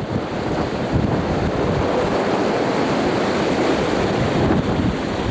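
Strong wind buffeting the camcorder microphone: a steady, fairly loud rushing rumble.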